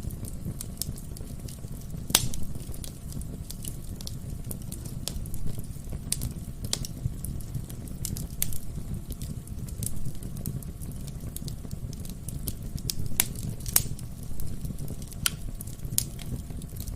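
Wood fire burning in a fireplace: a steady low rumble of the flames with irregular sharp crackles and pops from the burning logs, a few louder pops about two seconds in and near thirteen to fourteen seconds.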